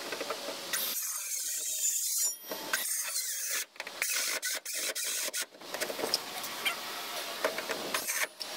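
Irregular scraping and rubbing with scattered sharp clicks, from hand work with tools and materials on the boat's transom.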